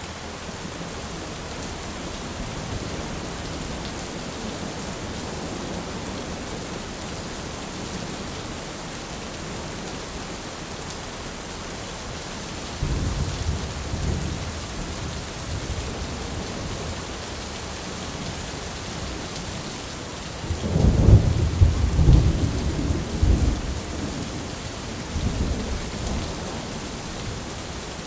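Thunderstorm: steady heavy rain, with rolling thunder that breaks in about halfway through and a louder, longer peal with several cracks a few seconds before the end.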